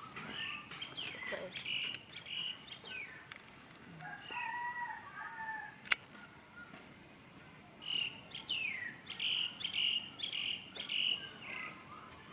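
Birds chirping: two runs of quick, high, repeated chirps with notes sliding downward, one at the start and a longer one past the middle. A lower two-note call comes in between, and a single sharp click sounds about halfway through.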